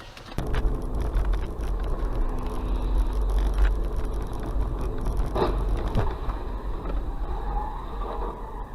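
A moving car's engine and road noise: a steady low rumble that starts just after a brief gap, with a short knock about five and a half seconds in.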